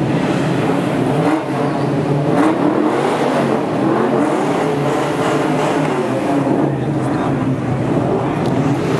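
Several Ford Mustang engines running together, their pitches rising and falling as they are revved.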